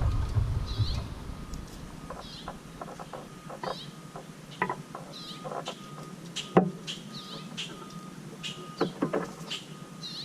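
Small birds chirping at a feeder, short high calls about once a second, mixed with sharp clicks and knocks.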